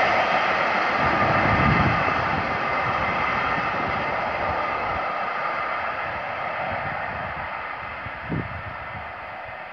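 A train running away down the line, its rolling noise fading steadily as it recedes. A short thump about eight seconds in.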